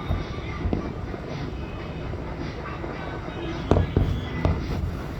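Aerial fireworks bursting, with a steady rumble of explosions and a few sharp loud bangs a little past the middle, over show music on loudspeakers and crowd murmur.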